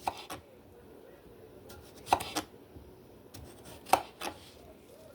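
Knife cutting mini cucumbers on a cutting board: three pairs of sharp knocks, about two seconds apart.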